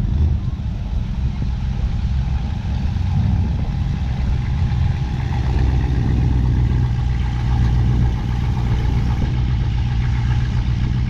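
Classic cars and trucks driving slowly past one after another, their engines running with a steady low sound.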